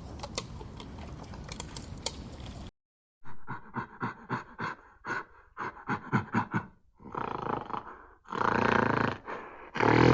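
An animal calling: a run of short, rapid huffing pulses, then two longer, louder calls near the end. Before that, for the first couple of seconds, a steady noisy background with scattered clicks from the previous clip, which cuts off suddenly.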